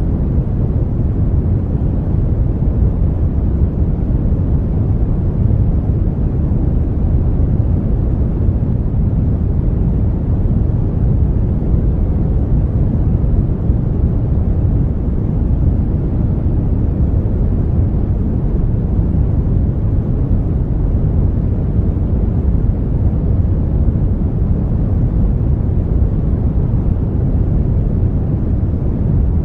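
Brown noise: a steady, even deep rumbling hiss, strongest in the lows and falling away toward the highs, with no changes.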